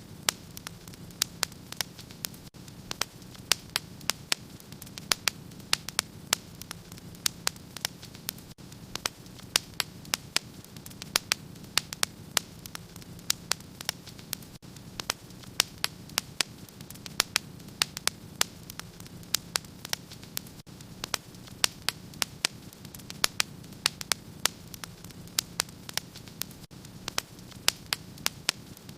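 Wood fire burning in a fireplace: a steady low rushing under frequent sharp, irregular crackles and pops, several a second.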